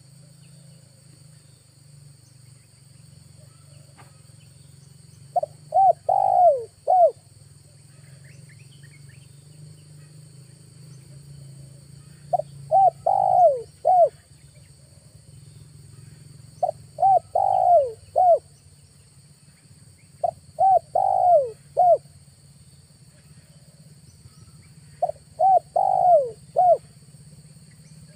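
Spotted dove cooing in five phrases about four seconds apart. Each phrase is a few quick coos around one longer note that falls in pitch. It is a trapper's decoy dove calling to lure wild doves.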